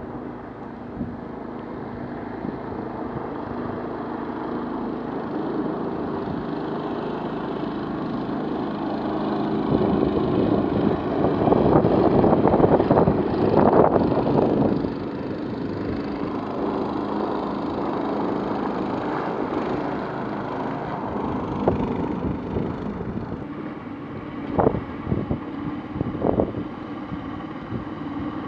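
Long-tail boat motor with a single-cylinder petrol engine running steadily during break-in. It grows louder and rougher for a few seconds about midway, then settles back to a steady run. Two or three sharp knocks come near the end.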